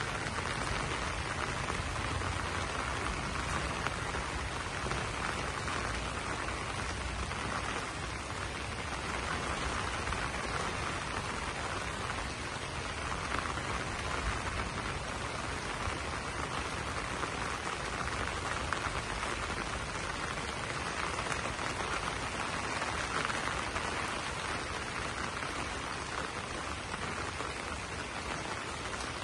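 Steady rain falling on banana leaves.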